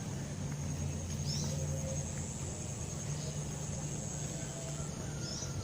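An engine running steadily with a low, even hum. A thin steady high-pitched whine sits above it, and there are a couple of brief bird chirps.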